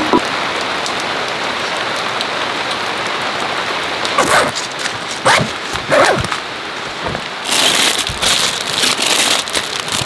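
Heavy rain falling steadily. From about four seconds in, louder irregular drops and splashes land close by, and the downpour swells heavier in the second half.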